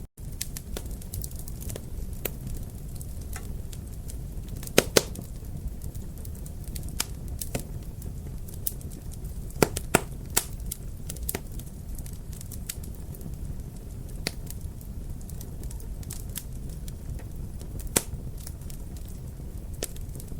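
Wood fire crackling in a fireplace over a steady low rumble, with scattered sharp pops. The loudest are a pair about five seconds in, another pair near ten seconds and a single pop near eighteen. The sound cuts out for an instant right at the start.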